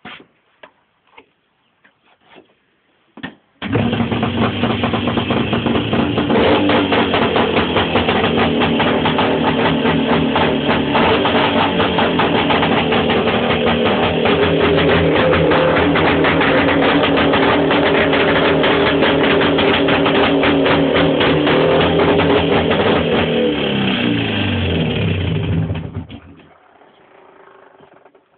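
Jawa motorcycle engine with a clear exhaust, starting abruptly about three and a half seconds in and running loudly and steadily for about twenty seconds. Its pitch then falls away over a couple of seconds and it stops, as the engine is switched off.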